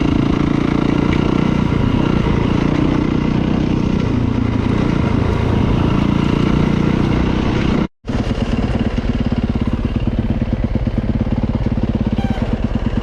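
Dirt bike engine running while being ridden. About eight seconds in the sound cuts out for a split second, then carries on with a steadier, evenly pulsing note.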